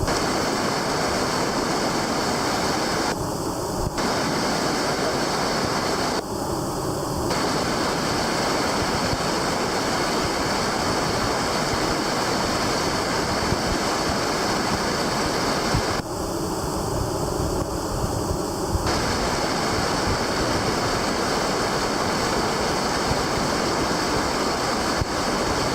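Whitewater rapids rushing loudly and steadily, a constant roar of fast water. The sound changes slightly for a second or two at a few points.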